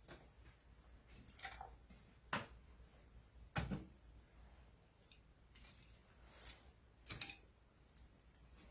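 A handful of scattered light knocks and clicks, like objects being handled and set down, the loudest about three and a half seconds in, over a faint low hum.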